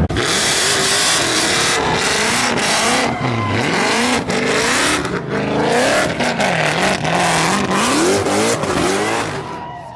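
Car engine revving up and down over a continuous, loud tire screech, typical of a burnout or donuts. The sound fades near the end.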